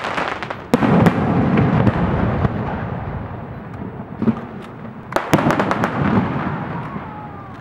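Aerial fireworks shells bursting: sharp bangs about a second in and again around five seconds in, each followed by a long rumbling echo.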